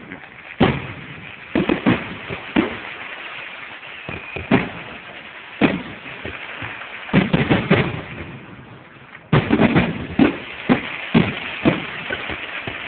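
Aerial fireworks shells bursting overhead, sharp bangs at irregular intervals. A quick cluster of bangs comes about seven seconds in, and a denser volley starts about nine seconds in.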